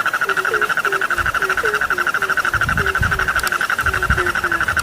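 A frog chorus: a fast, unbroken trill with a lower short call repeated about three to four times a second beneath it.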